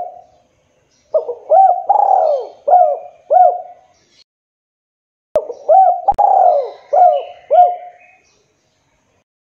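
Spotted dove cooing: two phrases of about five rising-and-falling coos each, separated by a pause of over a second. Two sharp clicks come at the start of the second phrase.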